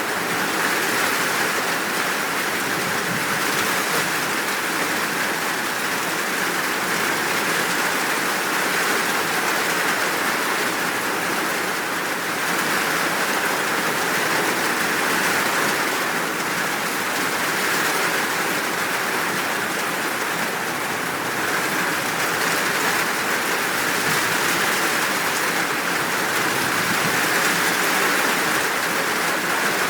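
Rain falling in a steady downpour, an even hiss with no thunder or birdsong standing out.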